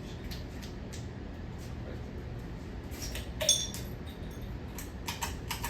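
A steady low hum with a sharp metallic clink about three and a half seconds in and a few lighter clicks near the end, like small hard objects being handled.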